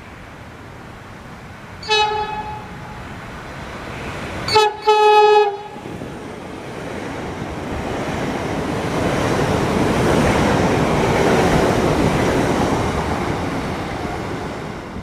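Train horn sounding one short blast, then a quick double blast, each a single steady note. A train then passes, its rumble building up and fading away.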